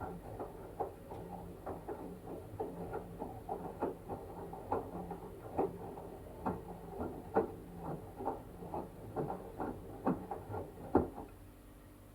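LG washing machine drum turning with a wet blanket inside, the load tumbling with soft irregular thuds a few times a second over a low motor hum. The tumbling stops about a second before the end, leaving only the hum.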